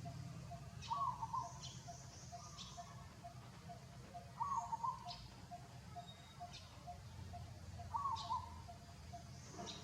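A bird's short warbling call repeating about every three and a half seconds, three times, with thin high chirps between and a faint, even, rapid pulsing underneath.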